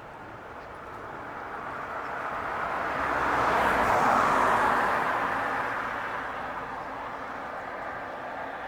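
A car driving past, its tyre and engine noise swelling to a peak about four seconds in and then fading away.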